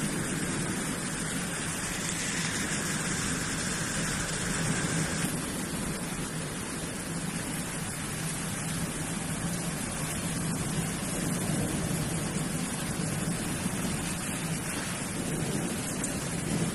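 Heavy rain pouring down as a steady, dense hiss, easing slightly in its highest hiss about five seconds in.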